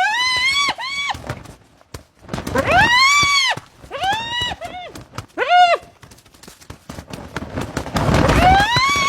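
Spotted hyenas giving a series of high, squealing yelps, each rising then falling in pitch. The calls come in several groups, with sharp clicks and scuffles in between.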